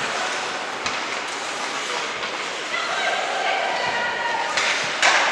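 A steady rushing noise of game play and crowd, with a few sharp knocks and some voices calling out in the middle.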